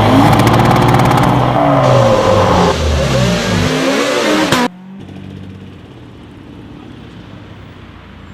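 Car engines revving, several pitches rising and falling over one another, cutting off suddenly about four and a half seconds in. A much quieter steady low hum follows.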